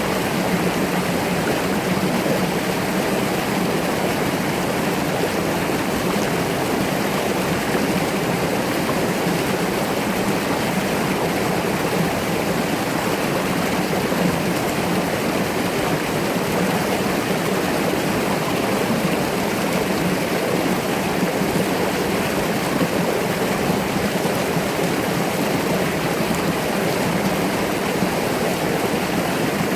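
Mountain brook running over rocks, a steady, unbroken rush and babble of water.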